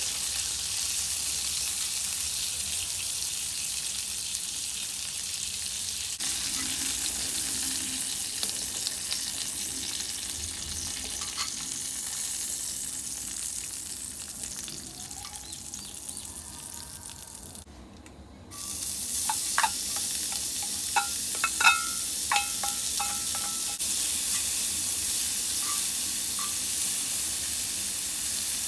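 Food sizzling in a cast iron skillet: asparagus frying, then after a brief drop about two-thirds through, chopped onions frying. A few sharp clicks and knocks of a utensil against the pan follow the drop.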